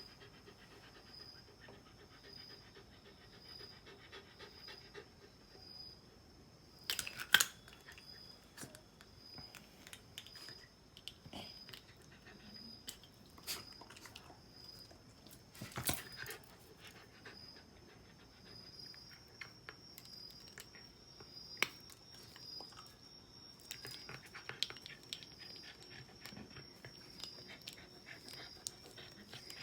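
Shiba Inu panting softly, with scattered sharp clicks and knocks; the loudest come about seven seconds in and again around sixteen seconds.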